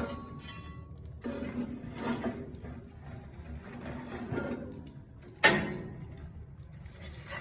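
Metal fire tongs clinking and scraping as wood is moved around in a fireplace, with one sharp, loud knock about five and a half seconds in.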